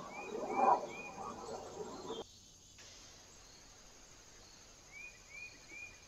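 A small bird feeding on the seed tray of a garden bird feeder: a short scratchy rustle about half a second in, with a quick run of three high chirps heard twice, once at the start and once near the end. The sound cuts off abruptly a little after two seconds, leaving a faint hiss.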